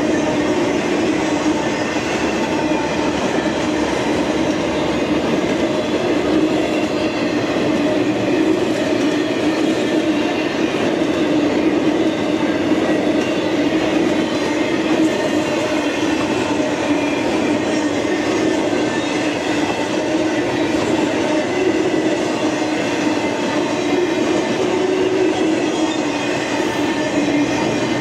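Norfolk Southern intermodal freight train of truck trailers on flatcars rolling past at a steady speed: continuous, even noise of steel wheels on rail.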